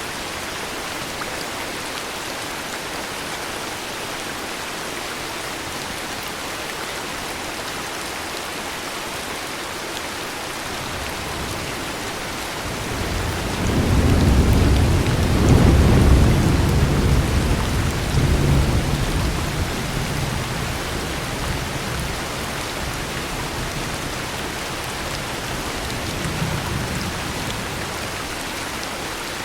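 Steady heavy rain with a long, deep rumble of thunder that swells about halfway through and dies away over several seconds. A fainter rumble follows near the end.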